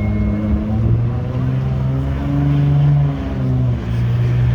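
Car engine accelerating, its pitch climbing for about a second, then dipping briefly about three seconds in before it picks up again.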